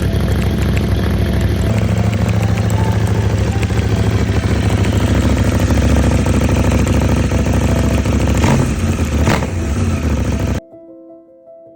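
CFMoto motorcycle engine running, with two quick rises in pitch near the end. The engine sound cuts off abruptly and soft piano music follows.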